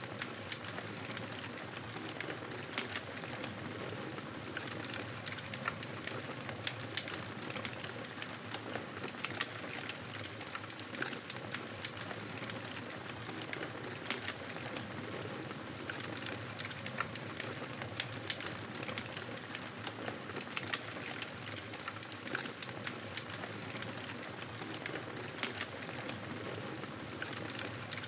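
Wood fire crackling: a steady hiss of flames with many small, irregular pops and snaps.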